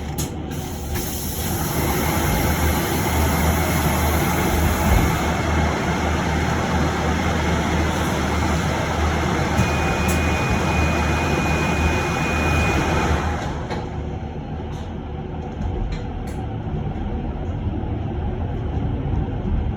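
Electric bus heard from inside the passenger cabin: a loud, even hiss with a faint steady whine rises about a second and a half in and cuts off sharply about two-thirds of the way through. Quieter low running noise stays under it throughout.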